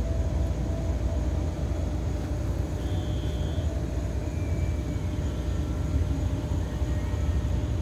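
Steady low outdoor rumble with no distinct events or bangs, with a faint short high tone about three seconds in.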